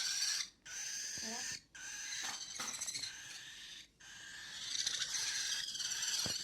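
An angry parrot hissing, a steady breathy hiss broken by short gaps about half a second, a second and a half, and four seconds in.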